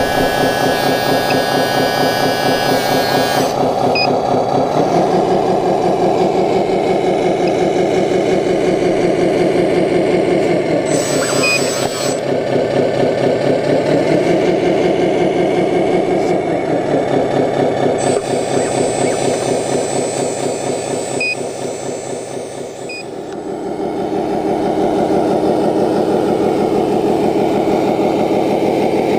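Simulated diesel truck engine from an RC scale truck's sound module, running and changing revs several times. A short hiss comes about eleven seconds in.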